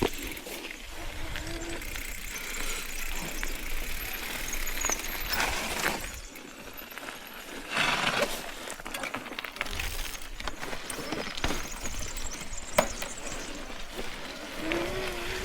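Mountain bike ridden over rough, wet ground: scattered rattles and knocks from the bike over a continuous noisy rush on the microphone, with a louder surge about eight seconds in. A steady hum starts near the end.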